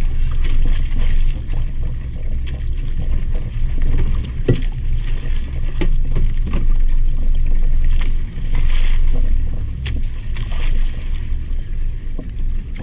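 Aboard a small fishing boat at sea: a steady low rumble with a hiss of water and wind, broken by scattered knocks and clicks.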